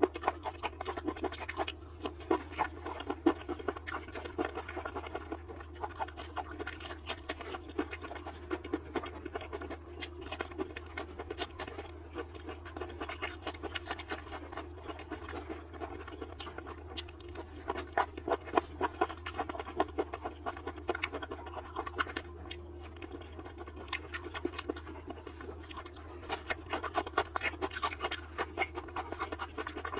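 Close-miked eating of sauced skewered vegetables such as lotus root slices: wet chewing and mouth sounds with many quick crisp crunches and clicks. A steady low hum runs underneath.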